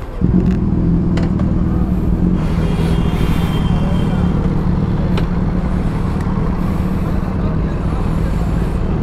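Sport motorcycle engine running steadily at a low, even speed. It comes in suddenly just after the start.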